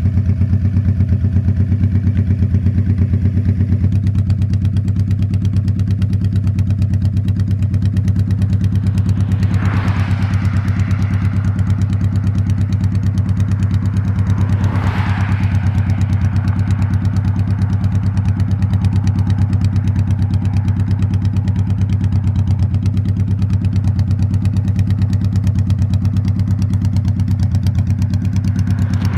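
A 2000 Honda Shadow Spirit 1100's V-twin engine running steadily at cruising speed, heard from on the bike. Two brief whooshes cut across it about ten and fifteen seconds in.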